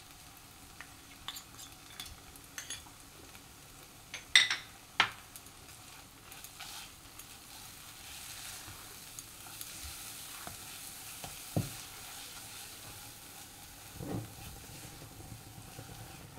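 Spice paste (crushed onion, ginger, garlic and chilli pastes with ground spices) frying in oil in a nonstick kadai, sizzling faintly as a silicone spatula stirs and scrapes it: the masala being fried down. A couple of sharp knocks about four and five seconds in are the loudest sounds.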